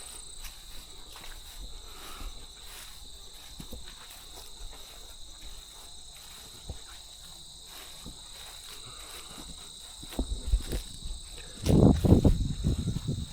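Insect chorus, a steady high-pitched drone, with light scattered footstep-like ticks. Near the end a louder burst of low rustling and thumping noise takes over.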